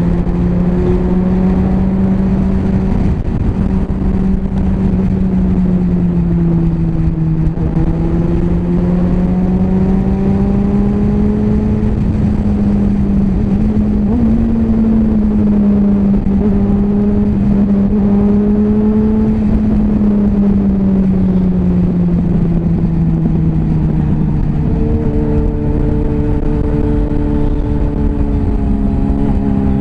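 Yamaha FZ6S Fazer's 600 cc inline-four running at steady cruising revs. Its note slowly rises and falls with the throttle, with one sudden jump in pitch near the end, over a constant rushing of wind and road noise.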